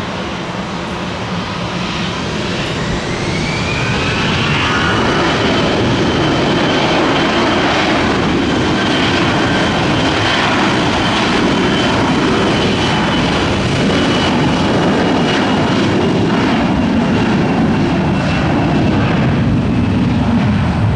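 Jet airliner's engines at takeoff power. The roar swells over the first few seconds, and a high whine climbs in pitch, then holds steady while the loud rumble goes on.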